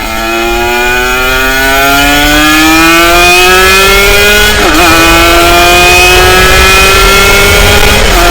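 Racing engine at full throttle, loud, its pitch climbing steadily through each gear with brief dips at upshifts about four and a half and eight seconds in.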